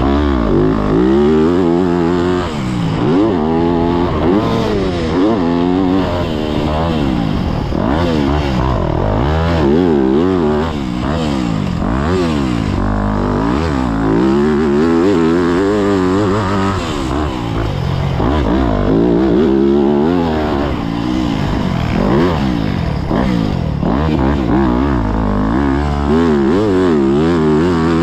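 Yamaha YZ250F four-stroke single-cylinder motocross bike being ridden hard, its engine revving up and dropping back again and again as the throttle opens and shuts, every second or two.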